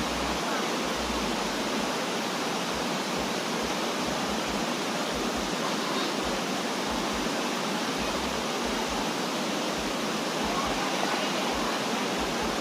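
Steady rush of a waterfall's cascading water.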